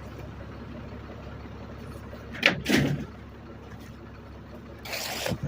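Garbage truck running with a steady low rumble, broken by a sharp clunk about two and a half seconds in and a short hissing, noisy burst near the end.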